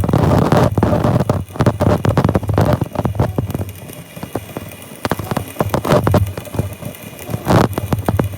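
Rapid, irregular knocks and clatter over a steady low hum. It is loudest in the first three seconds, quieter after, with a louder knock about seven and a half seconds in.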